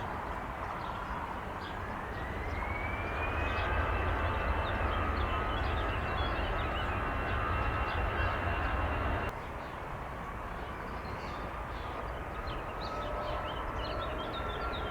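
Boeing 777 jet engines running with a low rumble and a whine that rises in pitch over the first few seconds, then holds steady, typical of the engines spooling up to takeoff power. About nine seconds in the sound cuts to a quieter, steady engine whine, with short bird chirps near the end.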